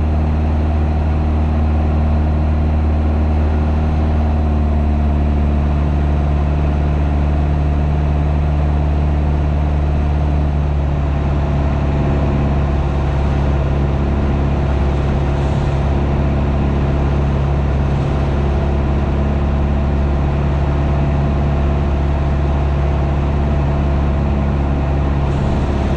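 Piper PA-28's piston engine and propeller droning steadily in the cockpit during cruise flight, with a slight shift in the engine note about ten seconds in.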